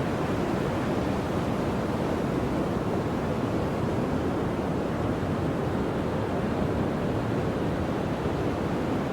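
Ocean surf breaking, a steady, even rush with some wind mixed in.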